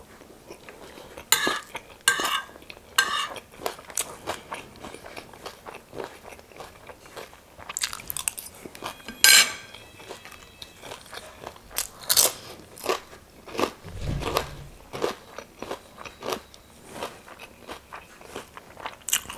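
Close-miked chewing of chatpate, a spicy Nepali puffed-rice snack, with many sharp crunches. A single dull thump comes about three-quarters of the way through.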